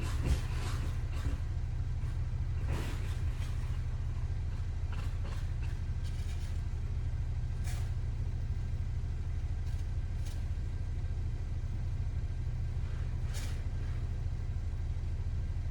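A truck engine idling steadily as a low, even hum, with a few brief scraping swishes over it, about three, eight and thirteen seconds in.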